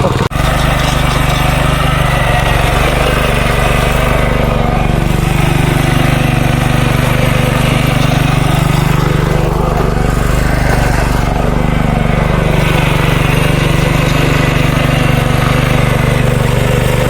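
Small walking tractor (power tiller) engine running steadily.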